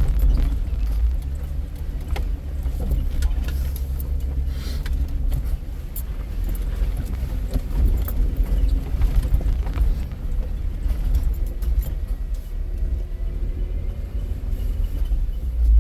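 A vehicle crawling over a rough dirt trail: a steady low rumble of engine and tyres with scattered rattles and knocks from the body and loose items jolting.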